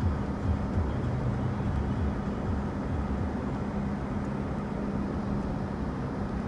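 A vehicle engine running steadily: a constant low hum under a rumble.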